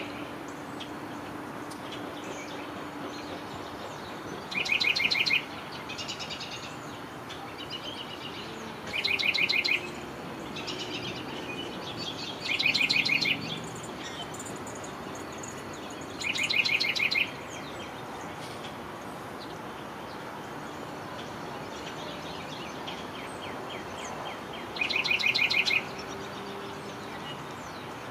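Songbirds singing: a short, rapid trill, the loudest sound here, comes five times at uneven gaps of a few seconds, with softer chirps between, over steady background noise.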